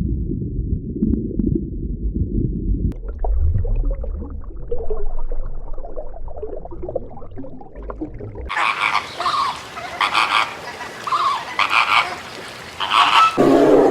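Animal calls in a run of short clips that change abruptly: a low rumbling sound that stops about three seconds in, a fainter rough stretch, then a series of short repeated calls in the second half.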